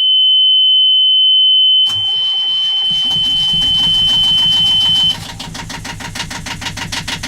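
The engine panel's warning buzzer sounds a steady high tone; a little under two seconds in the yacht's inboard engine is started and catches at once, settling into an even, rhythmic idle. The buzzer cuts off about five seconds in, once the running engine clears its warning lights.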